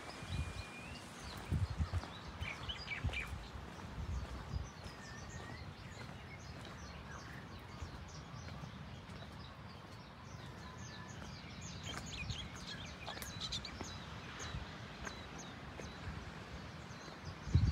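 Birds chirping and calling, with a few short whistled notes, over steady outdoor background noise. Irregular low bumps and rumble sit underneath, the loudest bump near the end.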